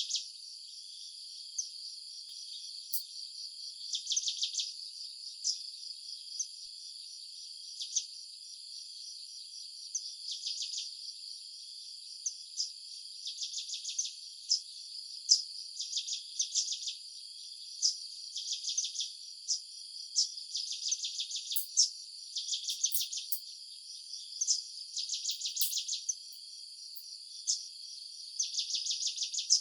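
Insects chirping: short trains of rapid high-pitched pulses, each about a second long, repeating every few seconds over a steady high shrill background.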